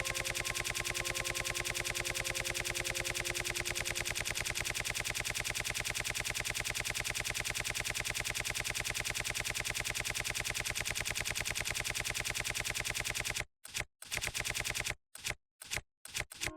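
Rapid, even rattle of repeated sharp shots, like automatic gunfire, running for about thirteen seconds. It then breaks off into a few short stuttering bursts near the end.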